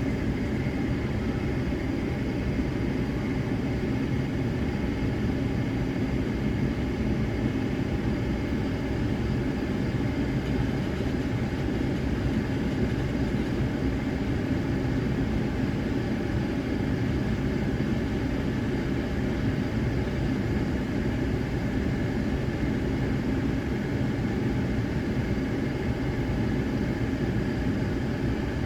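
Steady low mechanical hum with a few faint held tones above it.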